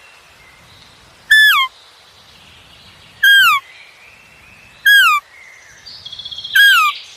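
A bird calling four times at an even pace, each call a short, clear whistled note that holds and then slides down in pitch. Fainter birdsong runs underneath, with a quick trill near the end.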